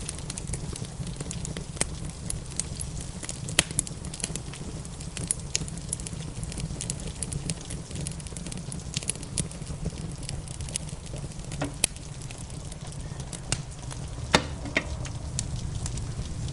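Wood fire crackling in a fireplace: irregular small pops, with a few louder snaps, over a steady low rumble and a soft hiss.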